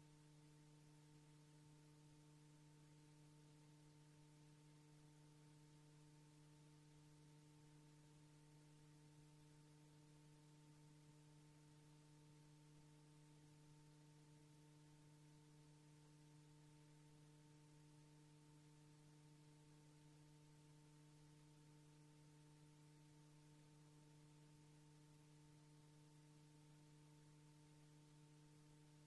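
Near silence, with a faint steady electrical hum and its overtones over light hiss, unchanging throughout.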